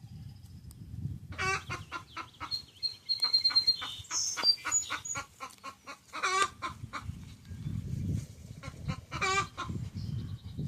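Domestic hen clucking as she forages: a run of short clucks, with three longer, drawn-out calls at about one and a half, six and nine seconds in. Faint high thin chirps come in briefly near the middle.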